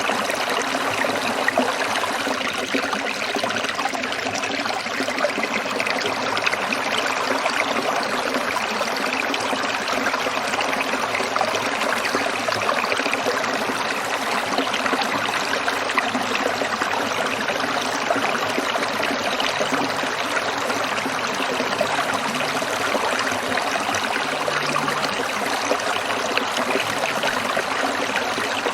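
Stream water trickling and splashing over stones in a steady, continuous babble.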